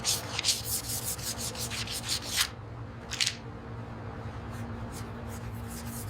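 Repeated rubbing strokes of an abrasive on a surface, in an irregular quick series that thins out after about three seconds, over a steady low hum.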